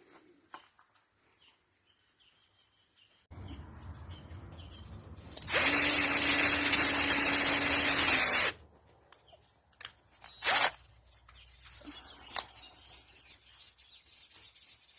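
Electric drill running steadily for about three seconds, starting about five and a half seconds in after a couple of seconds of quieter noise, then two short bursts near the ten-second mark.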